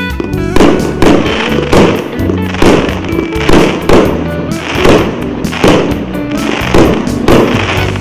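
Multi-shot fireworks cake firing, with a sharp shot and burst about once a second, over background music.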